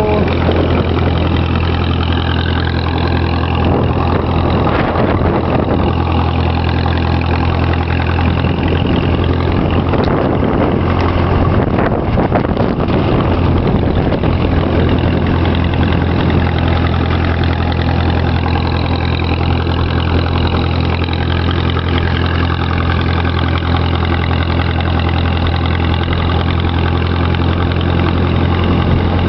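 Tractor engine running steadily while the tractor is driven, a loud, even drone; the drone breaks up into rougher noise for a couple of seconds about halfway through.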